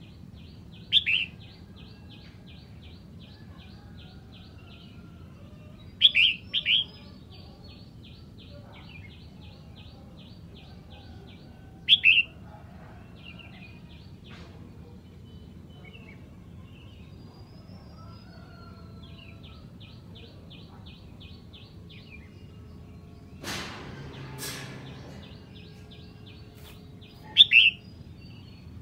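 Red-whiskered bulbul calling: loud, short, clear notes come every few seconds, once near the start, twice around six seconds, once at twelve and once near the end. A faint, fast, high ticking trill runs underneath. Around two-thirds of the way through there is a brief rustling noise.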